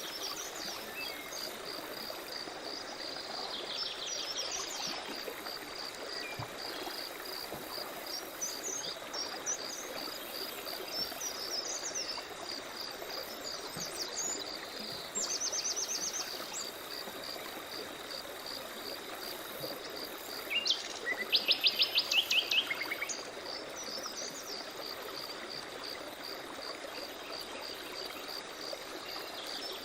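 Forest birds calling and singing in short phrases, the loudest a quick run of repeated notes about two-thirds of the way through. Under them an insect chirps in an even, steady pulse, over the constant rush of a stream.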